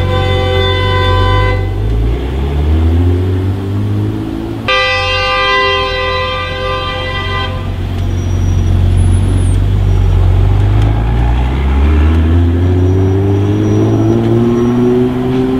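A car horn sounds two long honks, the first about two seconds long at the start and the second about three seconds long a little before the middle. In between and again later, a car engine rises in pitch twice as it accelerates.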